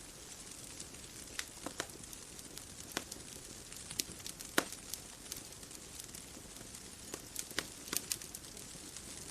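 Bonfire crackling: irregular sharp pops and snaps over a steady soft hiss, one louder pop about halfway through.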